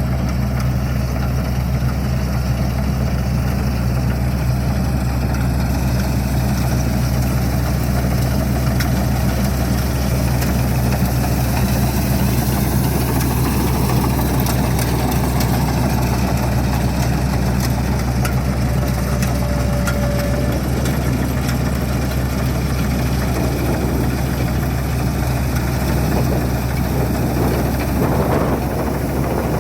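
Combine harvester engine running steadily, a low, even hum with mechanical noise over it.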